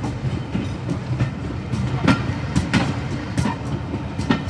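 Diesel-hauled heritage train running, heard from on board: a steady low rumble of the carriage with wheels clacking over rail joints, several sharp clacks in the second half.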